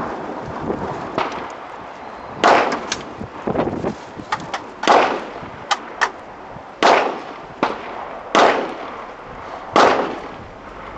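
Rifle shots from a BCM 14.5-inch midlength AR-15: five loud shots, spaced about one and a half to two seconds apart, with fainter sharp cracks in between. Wind noise runs over the microphone throughout.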